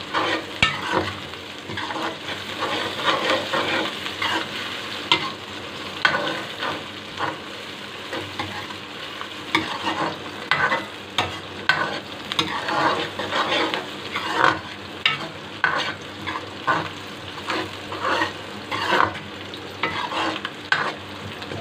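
Sliced onions, garlic and green chillies sizzling in oil in a steel wok, stirred with a metal ladle that scrapes and clinks against the pan again and again at an uneven pace.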